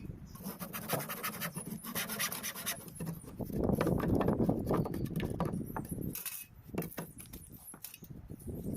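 Irregular scraping and rubbing on wood with scattered clicks and taps, denser about halfway through.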